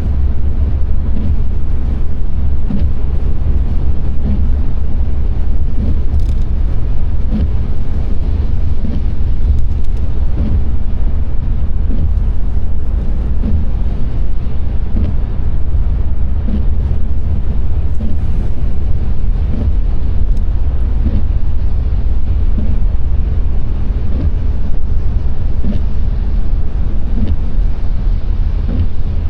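A car driving in the rain: a loud, steady low rumble of engine and tyres on the road.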